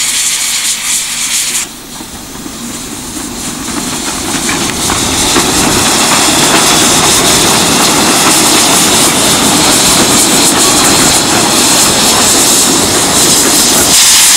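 Strong wind off the sea buffeting the camera microphone: a loud, steady rushing that drops suddenly about two seconds in, then builds back up.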